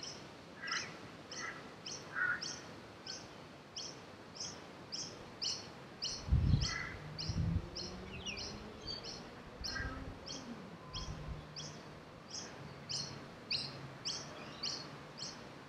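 Outdoor birdsong: a bird repeats a short high call about twice a second, and other birds chirp now and then. A few low thumps around the middle stand out above it.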